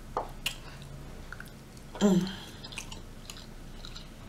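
Close-up mouth sounds of eating: wet smacking and chewing clicks, with a short hum about two seconds in.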